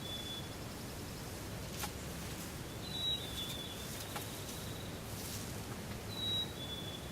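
A small songbird's clear whistled two-note song, a higher note dropping to a slightly lower one, repeated about every three seconds over steady outdoor background noise, with a couple of faint clicks.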